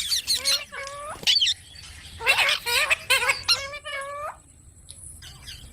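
A green pet parrot calling: a run of short, squawky pitched calls that bend up and down in pitch, coming in quick groups, with a brief lull near the end.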